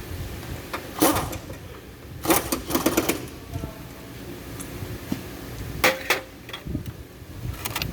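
Tools and metal parts knocking and clanking in scattered bursts, about half a dozen sharp knocks, some of them ringing briefly.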